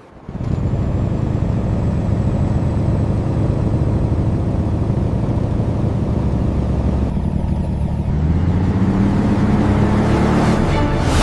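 Pickup truck engine running with a deep steady rumble that starts suddenly, then revs up with a rising pitch near the end.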